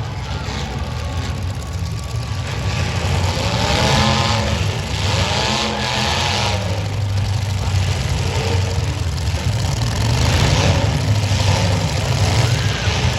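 Demolition derby car engines running, a steady low drone with revs rising and falling several times.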